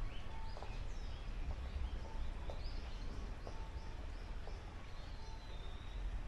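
Small birds chirping, a string of short repeated calls, over a steady low background rumble.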